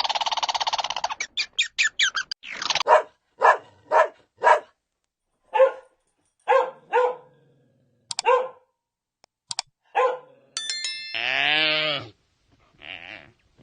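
Dog barking, a string of single barks spaced about half a second to a second apart, followed near the end by a longer drawn-out call that falls in pitch.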